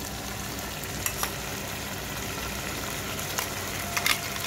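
Prawns frying in oil in a wok, a steady sizzle, while taro-leaf paste is scraped in from a steel bowl, with a few sharp clicks of the bowl and spoon against the pan about a second in and again near the end.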